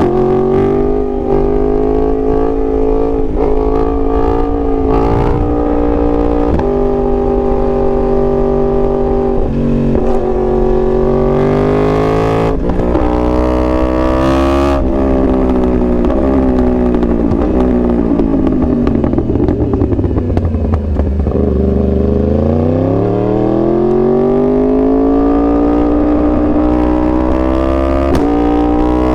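2021 Yamaha R1's crossplane inline-four engine and exhaust running under load, its pitch holding with small steps. Past the middle the revs fall away for several seconds as it slows, then climb again.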